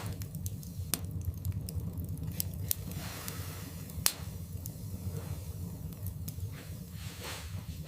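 Wood fire burning in a fireplace: a steady low rumble of the flames with irregular sharp crackles and pops of the logs, the loudest pop about four seconds in.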